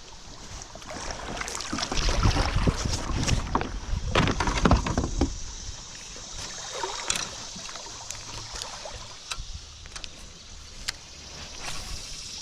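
Kayak on the water: knocks and low rumbling against the hull with water movement, loudest for about three seconds near the start, then quieter with scattered small clicks.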